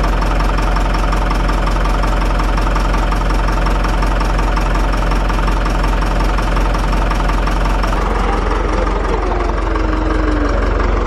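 Farm tractor engine running steadily at low revs with a knocking, diesel-like idle. Its tone changes about eight seconds in.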